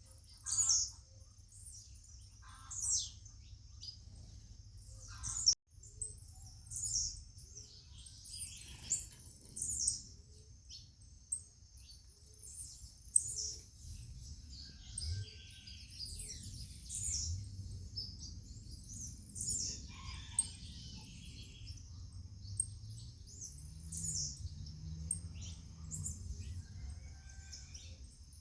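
Birds chirping in short, repeated calls, a new call every second or two, over a steady high-pitched hiss and a low background rumble.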